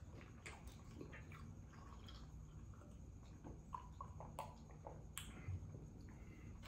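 Faint chewing of a juice-dipped Italian beef sandwich, with scattered small wet clicks of the mouth at irregular intervals.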